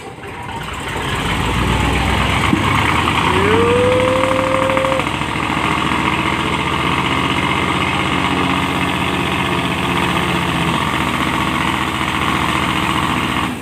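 A truck stuck in mud, its engine held at high revs under load while the driven wheels spin in the mud. The engine runs at a steady pitch over a broad noisy wash, with a brief rising tone about three and a half seconds in.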